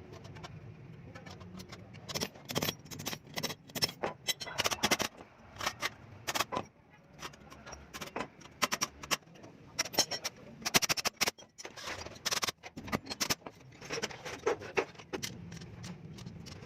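Metal clutch-plate parts clinking and being tapped by hand at an irregular pace, over a low steady hum.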